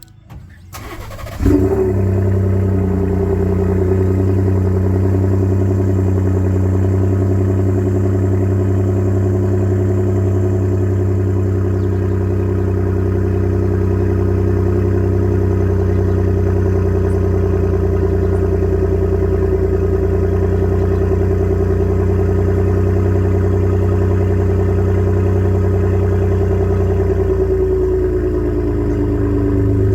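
2017 Ford F-150's 3.5 EcoBoost twin-turbo V6 cold-starting through a resonator-deleted exhaust with the stock muffler. It cranks briefly, fires about a second and a half in, and settles into a loud, steady fast idle. The idle drops slightly near the end.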